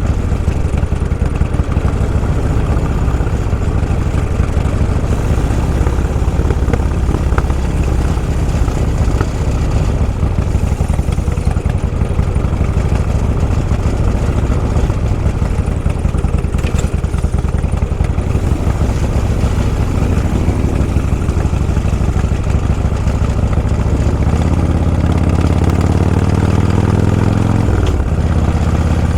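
Motor vehicle engine running under way, with a steady rush of road and wind noise. About 24 seconds in, a deeper engine note comes up strongly, and its pitch falls near the end.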